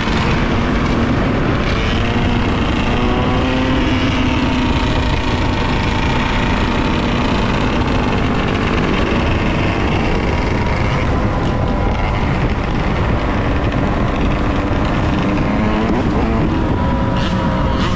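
Yamaha YZ125 two-stroke dirt bike engine running under way, its pitch rising and falling with the throttle, over heavy wind noise on the microphone.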